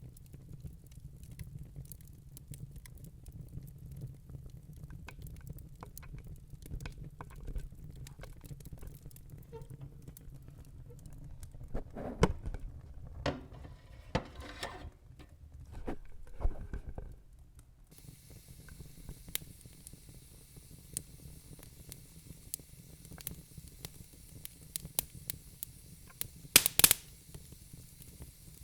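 Wood logs burning in a fireplace: a low rumble of flame with scattered crackles and pops, a cluster of sharper pops about twelve seconds in and again near the end. From about two-thirds of the way through, a steady hiss joins the crackling.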